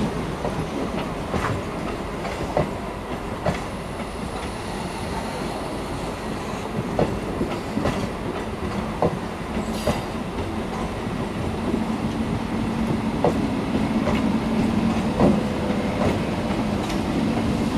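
Old-shape Indian Railways EMU local train running past at close range: a steady rumble with the wheels clicking over rail joints about once a second. A low steady hum joins in about two-thirds of the way through.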